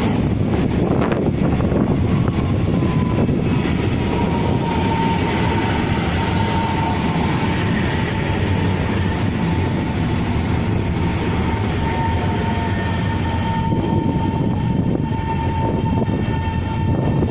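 Taiwan Railway train running on the track: a steady, heavy rumble with a high, steady whine held through most of it.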